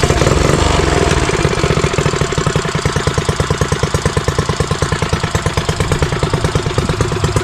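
Custom Motovox mini bike's small single-cylinder engine running, a little higher for the first second, then settling to a steady idle chug of about ten beats a second. It is running as it is supposed to now that its carburetor has been worked on.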